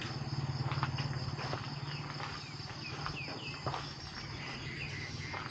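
Crickets and other insects chirring steadily at a high pitch over a low steady hum, with a few short high chirps and scattered clicks in the middle.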